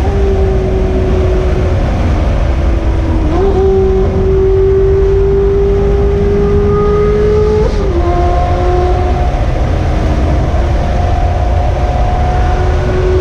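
Loud straight-piped Ferrari engine pulling under load. Its note climbs slowly, with sudden jumps in pitch at gear changes about three and eight seconds in.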